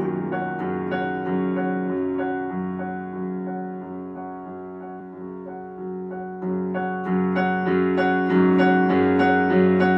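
Solo piano playing an instrumental passage in a live song, a run of repeated chords that grows softer toward the middle and builds up again near the end.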